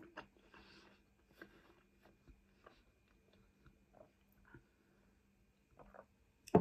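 Faint close-up mouth sounds of a person chewing food with the mouth closed: soft wet clicks and smacks scattered through, with a sip from a glass about two-thirds of the way in.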